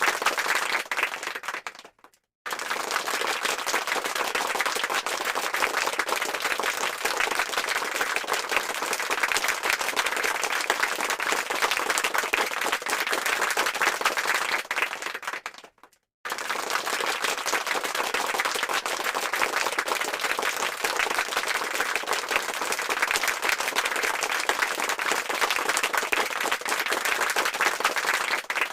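Crowd applause, many hands clapping densely. It fades out about two seconds in, returns after a brief silence, fades out again about halfway through, then starts once more.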